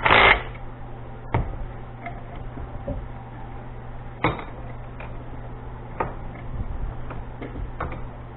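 Scattered light clicks and knocks of metal parts and hand tools being handled, a short loud noise right at the start, over a steady low hum.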